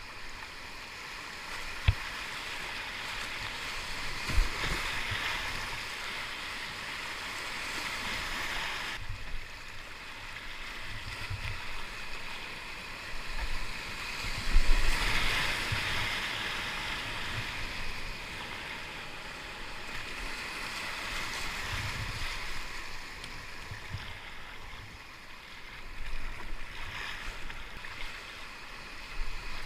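Whitewater river rushing past a kayak, swelling and easing as it runs through rapids, with splashes and scattered low knocks from paddling and a sharp click about two seconds in.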